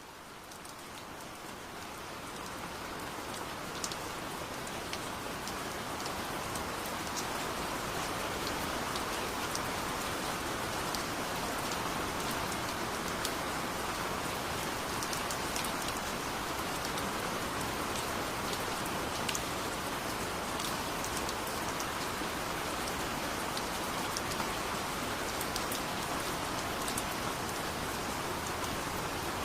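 Heavy rain falling steadily, with scattered sharp drop ticks over the hiss. It fades in over the first few seconds.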